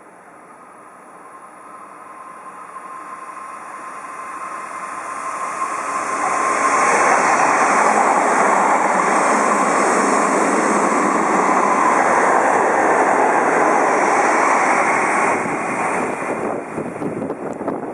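Odakyu Line electric train approaching and passing at speed: wheel and rail noise builds over about six seconds, stays loud for about eight, then starts to fade near the end.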